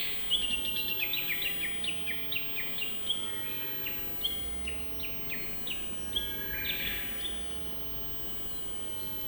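A songbird singing a long run of short, quick notes, each sliding downward, about three or four a second, ending about seven seconds in. Under it runs a steady high-pitched drone and the low rush of a mountain river.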